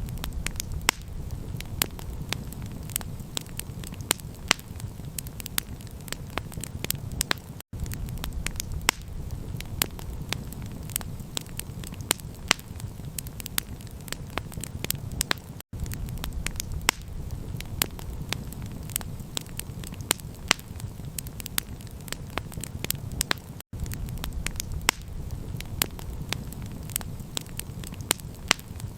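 Campfire crackling with many sharp, irregular pops over a steady low rumble. The sound cuts out for an instant about every eight seconds, the seams of a looped recording.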